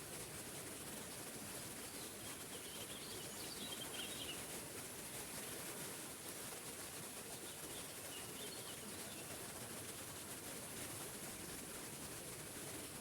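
Waterfall rushing steadily, with faint bird chirps about three seconds in and again around eight seconds.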